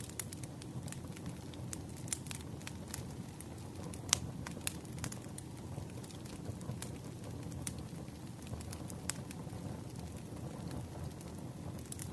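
Campfire crackling: irregular sharp pops and snaps of burning wood over a steady low rumble of the fire. The loudest pop comes about four seconds in.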